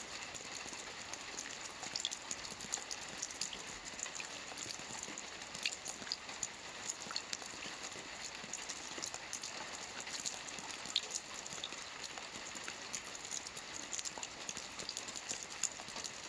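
Soft rain falling steadily on a roof: a continuous patter with many small individual drop ticks scattered irregularly through it.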